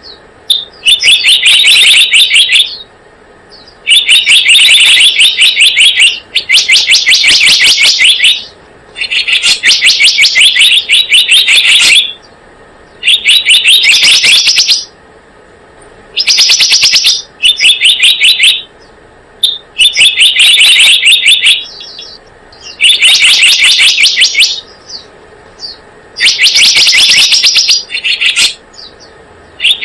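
Lure-call recording of the selendang biru bird: loud, very rapid chattering trills in bursts of one to two seconds, repeated about ten times with short pauses between them.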